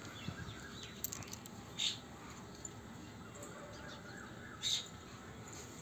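Birds chirping faintly in the background, with two brief hissing noises about two and five seconds in.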